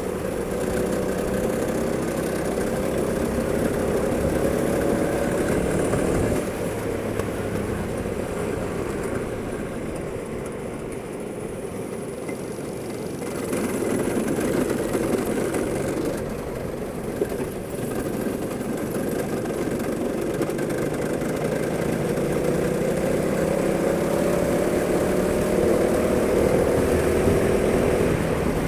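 Go-kart engine running under load, its pitch climbing steadily as the kart gathers speed and dropping abruptly about six seconds in as it slows. It stays lower through the middle, then climbs again over the last several seconds.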